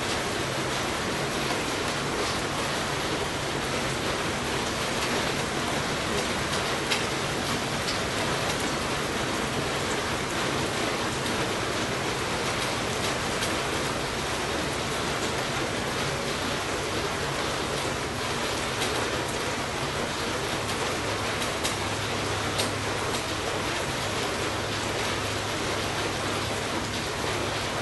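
Heavy rain falling: a steady hiss with scattered drop ticks, joined by a faint low hum in the last several seconds.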